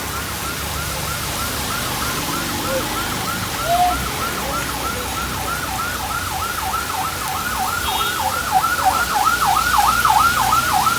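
A siren in a fast yelp, about four to five rising-and-falling sweeps a second, growing louder in the second half as it comes closer, over a steady hiss of rain.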